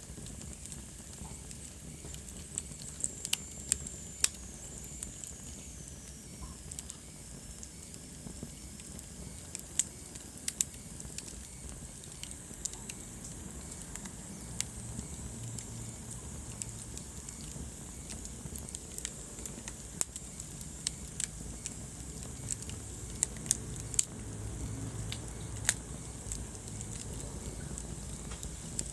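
Wood fire burning in a fireplace: a steady low rumble of the flames with frequent sharp, irregular crackles and pops. A faint high whistle falls in pitch a few seconds in.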